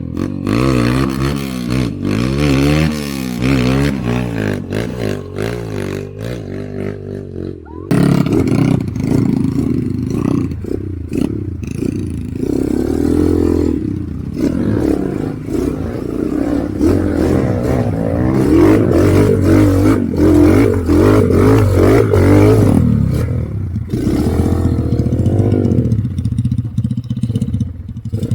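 Motorcycle engine revving hard, its pitch rising and falling again and again, with clattering, then settling to a steadier, lower running near the end.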